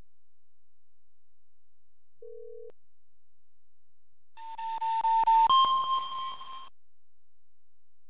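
Seismic monitor's electronic alert signal: a brief faint low beep, then a two-second chime, a pulsing lower tone that steps up to a higher held tone, repeating about every four seconds while the earthquake's waves register.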